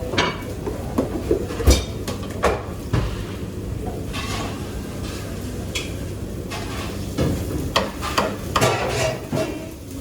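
Kitchen clatter: dishes, pots and utensils knocking and clinking at irregular moments, busier in the last few seconds, over a steady low hum.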